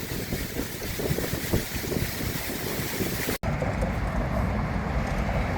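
Wind buffeting the microphone outdoors, a gusty rushing noise. About three and a half seconds in, an abrupt cut gives way to a steadier, duller low rumble of outdoor ambience.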